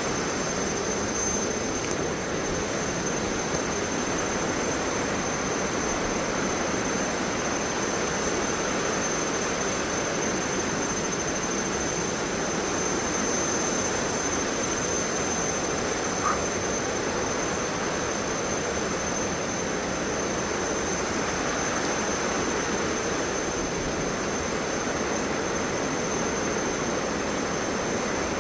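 Steady rush of water from a 74 m waterfall and the fast river below it, an even noise with no let-up. A thin, steady high tone runs over it.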